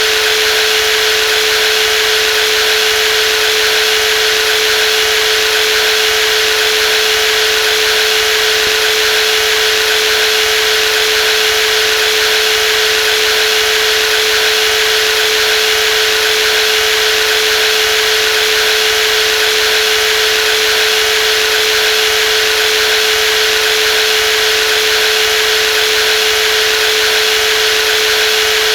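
Brushless jigsaw running steadily, its motor giving a constant whine over a rushing hiss with no change in speed.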